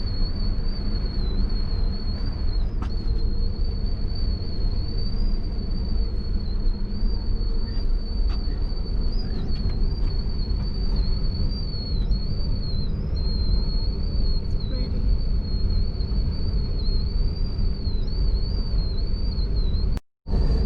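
Steady low rumble of a moving Amtrak passenger train heard from inside the car, with a thin high whine that wavers slightly in pitch. The sound cuts out briefly near the end.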